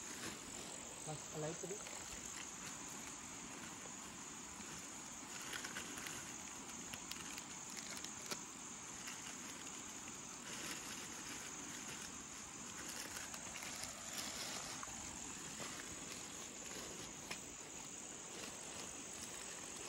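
Crickets chirring steadily, a continuous high-pitched drone, with faint voices in the background now and then.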